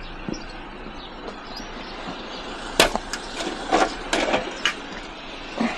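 Scrap being handled and loaded: a scatter of knocks and clatters, the sharpest nearly three seconds in, a quick cluster around four seconds and one more near the end.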